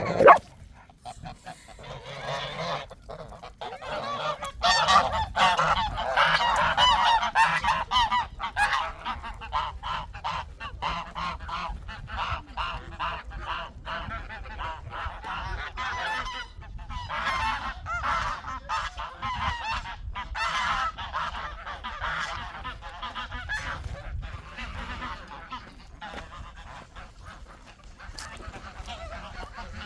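A flock of farm fowl calling continuously in a dense, honking chatter, loudest from about four to nine seconds in. A single sharp knock right at the start.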